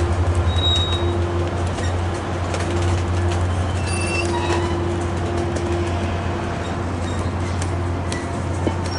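Caltrain diesel-hauled passenger train pulling out of the station: the locomotive's diesel engine running with a steady low throb, and scattered clicks from the wheels and cars.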